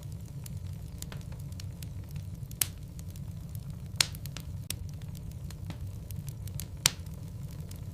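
Wood logs burning in a fireplace: a steady low rumble of the flames with scattered faint crackles and three sharp pops, at about two and a half, four and seven seconds in.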